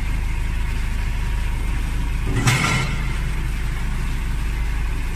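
Vehicle engine running steadily with a low hum, with one short burst of noise about two and a half seconds in.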